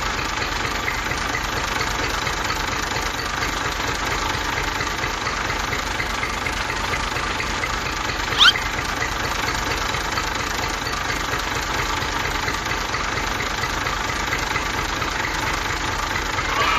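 Engine idling steadily with a knocking beat, as of a tractor. About eight and a half seconds in there is a short rising chirp.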